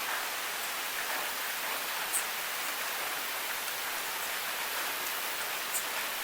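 Steady rain falling, an even hiss, with two single sharp drips close by, about two seconds in and again near the end.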